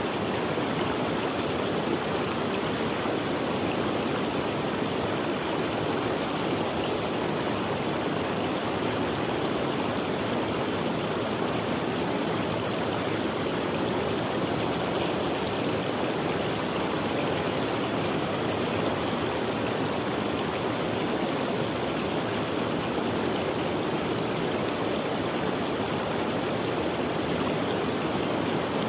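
Running water of a stream flowing over rocks: a steady, even rush with no change.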